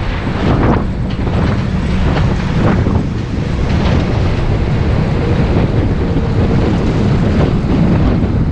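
Moving bus: a steady low rumble of engine and road noise, with wind buffeting the microphone.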